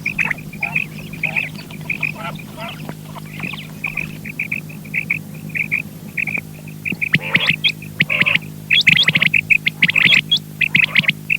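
Quail calling: a rapid run of short chirping notes that grow louder and busier about seven seconds in, over a steady low hum.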